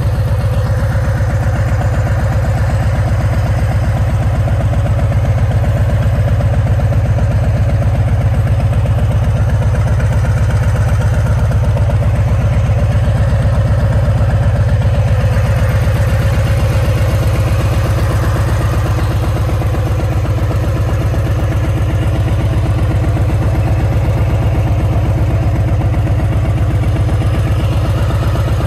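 2019 Harley-Davidson Fat Boy's Milwaukee-Eight 114 V-twin idling steadily through a Vance & Hines exhaust, with a regular low pulse and no revving.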